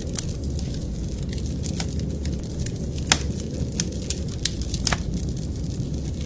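Wood fire crackling in a fireplace, with sharp pops and snaps at irregular moments, over a steady low rumble.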